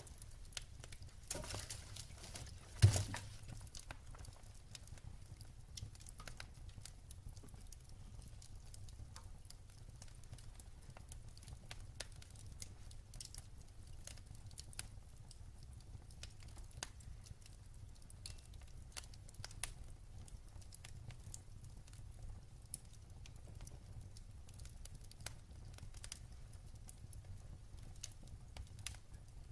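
Wood fire crackling in a fireplace: scattered sharp pops and snaps over a steady low rumble, with one loud pop about three seconds in.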